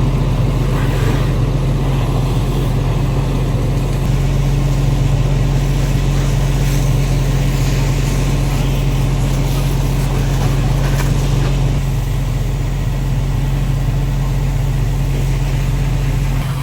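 A large vehicle engine running steadily with a deep, even hum.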